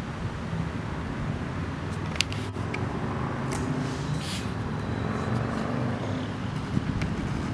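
VW Golf Mk4 V5's 2.3-litre five-cylinder engine running steadily through a modified exhaust, a low, even note, with a couple of brief clicks.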